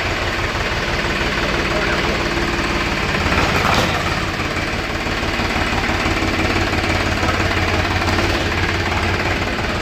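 Powertrac 439 RDX tractor's diesel engine running steadily with a fast low knock, swelling briefly about three and a half seconds in.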